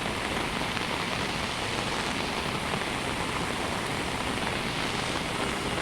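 Swollen river water rushing past a bridge column, mixed with heavy rain falling: a steady, even rush of water noise.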